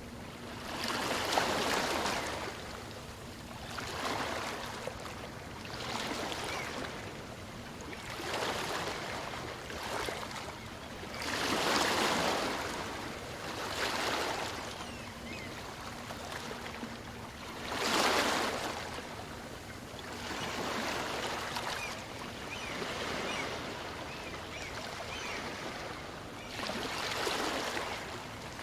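Small waves of a calm sea washing in on a beach, one after another, each a swell of hiss that rises and falls about every two seconds, with a few stronger breaks among them.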